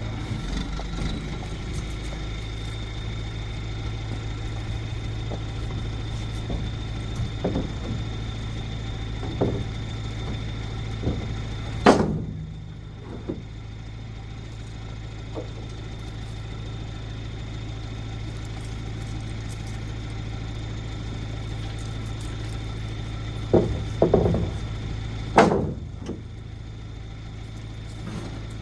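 A motor vehicle engine idling steadily, with a thin high whine over it. A few sharp knocks cut through: one about twelve seconds in and three close together near the end.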